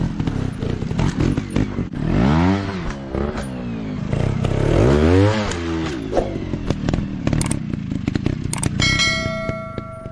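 Dirt bike engines running with a rattling clatter. An engine revs up and back down twice, and near the end a brief steady ringing tone sounds.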